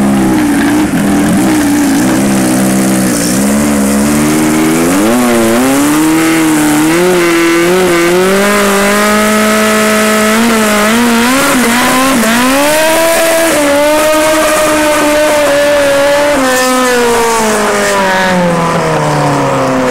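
Kawasaki GPz 1100's inline-four engine revving hard and held high in a burnout. The revs climb in steps over the first several seconds, dip briefly about twelve seconds in, climb again, and fall away near the end.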